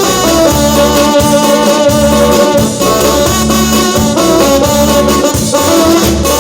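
A live band playing a Latin dance tune loudly, with held melody notes over a steady bass beat.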